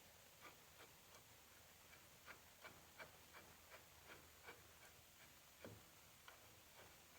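Faint, irregular light clicks and taps, two or three a second, with one slightly heavier knock near the end.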